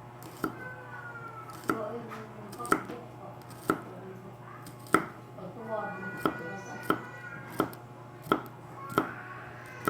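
Kitchen knife chopping garlic on a cutting board: single sharp knocks, about one a second.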